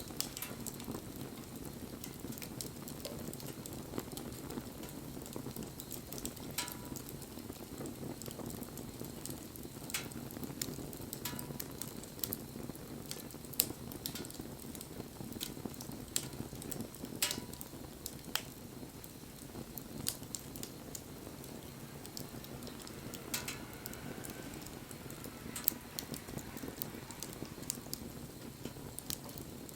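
Wood bonfire burning, with a steady low rush of flames and irregular sharp crackles and pops from the burning wood.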